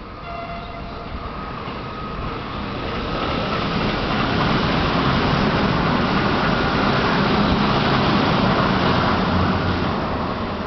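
MTR SP1900 electric multiple unit train passing on the West Rail Line, growing louder over the first few seconds, holding a steady rumble and rush of wheels on rail, then fading near the end.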